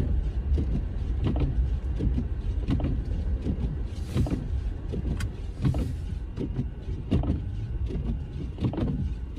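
Car cabin noise while driving on snowy roads: a steady low rumble of engine and tyres, with many short knocks and two brief hisses a few seconds in.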